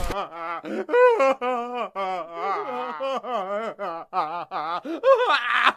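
A single high-pitched voice making wordless, wavering vocal sounds in a run of short bursts, its pitch rising and falling, highest about a second in.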